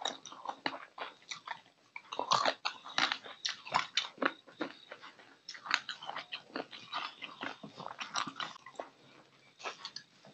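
Close-miked wet eating sounds of a man eating rice and fish curry by hand: open-mouthed chewing and lip smacks, a dense run of short irregular clicks, with a brief lull a little before the end.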